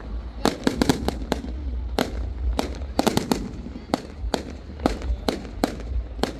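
Fireworks going off in quick, irregular succession: many sharp bangs and cracks, several a second, over a continuous low rumble.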